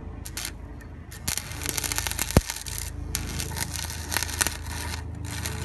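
Welder crackling as a bead is laid on the exhaust pipe, in two runs starting about a second in with a short break in the middle, over a steady low hum.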